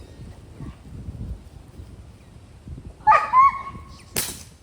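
A dog barks twice about three seconds in, followed by a single sharp crack near the end.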